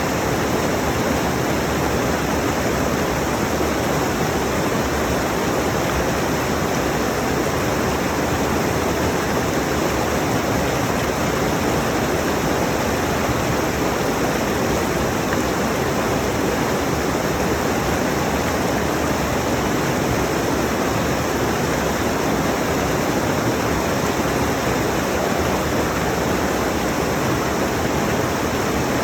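A rushing mountain stream: a steady, full wash of water over rocks, close to the microphone.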